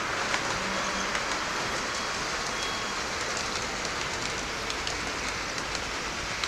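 Gauge 1 model trains running on the layout: a steady rolling hiss from the wheels on the track, with faint scattered clicks.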